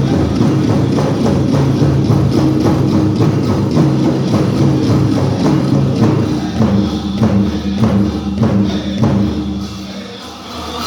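Powwow drum group singing a prairie chicken dance song over steady beats on a shared big drum, with a jingle of bells. After about six seconds the strikes come farther apart, and the sound dips briefly near the end.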